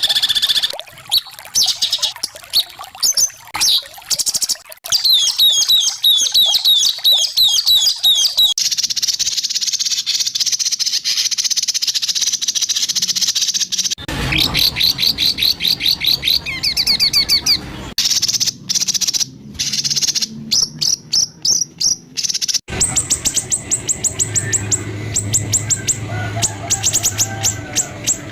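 White-rumped shama singing harsh, rapid-fire repeated phrases: fast high trills and chip series in stretches that change abruptly several times.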